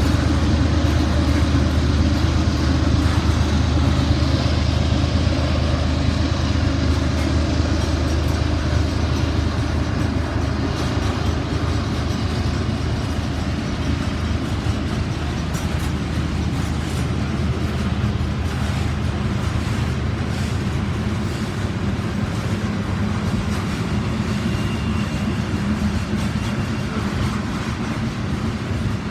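A Norfolk Southern freight train passing. The diesel locomotives' low engine drone is strongest for the first ten seconds or so and then fades, leaving the steady rolling noise of freight cars on the rails.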